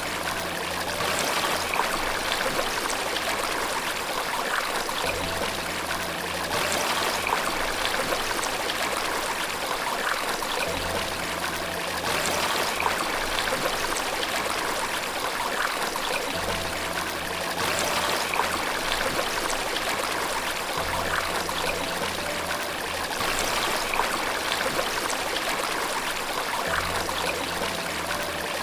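Steady rushing and trickling of flowing water, like a stream or small waterfall. Under it, faint low sustained piano notes come back every five or six seconds.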